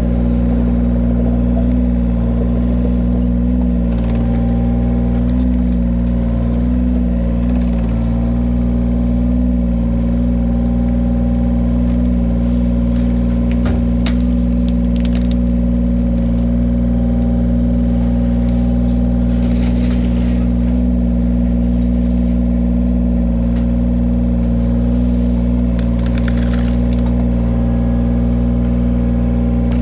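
Engine of a firewood-splitting machine running steadily at constant speed, with bursts of crackling from wood being cut and split a few times partway through.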